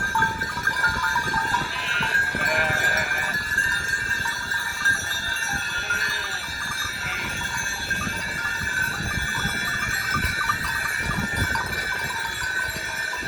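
Sheep bleating now and then over a steady high-pitched drone.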